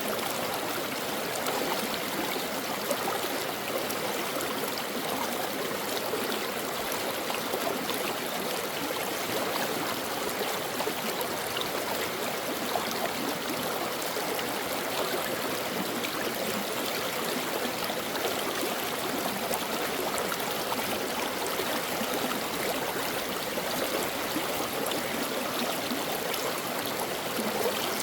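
A shallow stream babbling and trickling over rocks, a steady rush of water with small bubbling and splashing detail.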